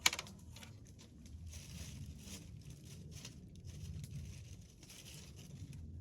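Wood campfire crackling, with a sharp pop right at the start and irregular small pops and hissing after it.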